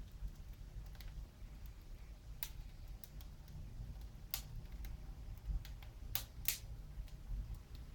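Wood fire in a fireplace crackling, with a few sharp, irregular pops (two close together about six seconds in) over a low rumble.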